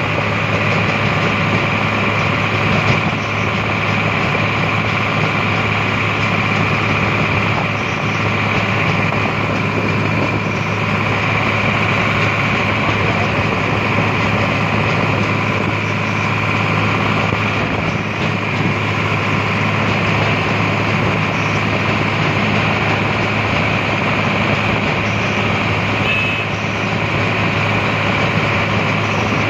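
Tractor engine running steadily at high speed as the tractor drives along.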